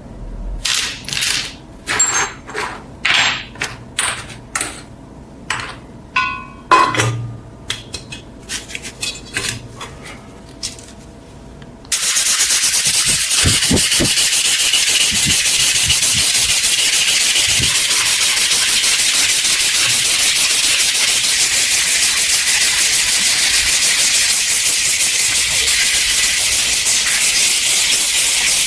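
Hand work on the cast iron parts of a corn sheller: a run of short scraping strokes, roughly one or two a second, then about twelve seconds in a sudden switch to a loud, steady hiss that carries on.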